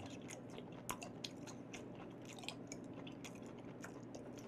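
A person chewing raw beef with the mouth close to the microphone: a string of faint, wet mouth clicks and smacks, one of the louder ones about a second in.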